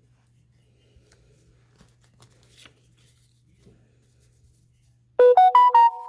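Faint rustling and small handling ticks, then about five seconds in a phone's electronic alert melody starts loud: a quick run of chiming notes.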